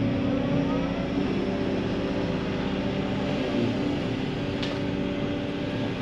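Digger's diesel engine running steadily, with a light click about four and a half seconds in.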